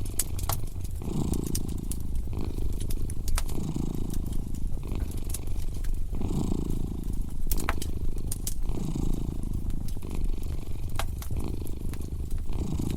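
A cat purring close up, its low purr swelling and easing in a steady rhythm with each breath, over a wood fire crackling with scattered sharp pops.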